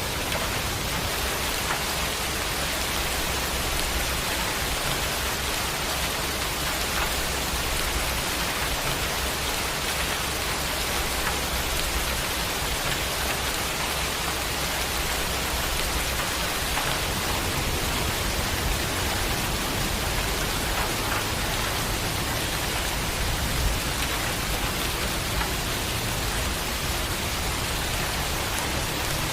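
Steady heavy rain falling, an even hiss of many drops with no break.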